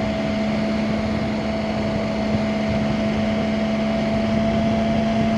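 Motorcycle engine running at a steady cruising speed, an even drone with wind and road noise around it.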